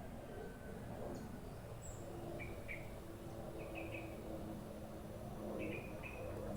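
Small birds chirping: short chirps in quick pairs, repeated about three times, with an occasional thin, high chirp, over a steady low background hum.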